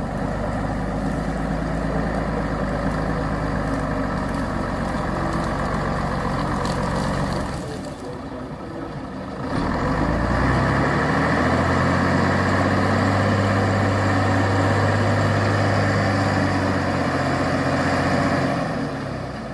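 Truck engine working hard, straining to pull the loaded truck out of mud. It eases off for a moment about eight seconds in, then revs up with a rising pitch and holds high and loud until it drops back near the end.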